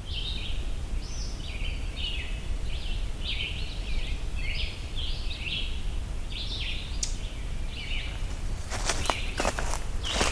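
A small songbird repeating short, high notes, about two a second, over a low steady rumble. From about nine seconds in, footsteps on the trail.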